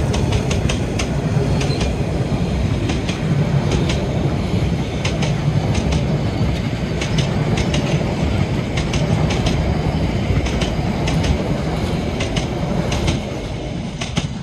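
Steam-hauled narrow-gauge train rolling past, a steady low rumble with irregular sharp clicks from the wheels over the rail joints; it fades a little near the end.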